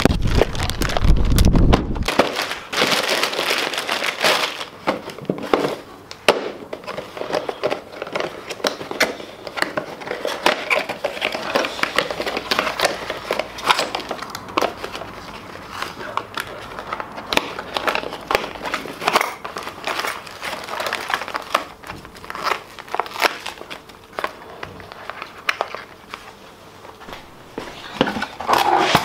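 Crinkling and rustling of packaging being handled, with many small clicks and knocks, over a low rumble during the first two seconds.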